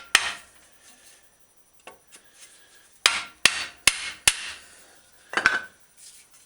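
Hammer blows on a rounded wooden block held against a dented steel bicycle fender, knocking its mangled edge back into a C shape; each blow is a sharp knock with a short metallic ring. One blow just after the start, then four quick blows about three seconds in, and one more a second later.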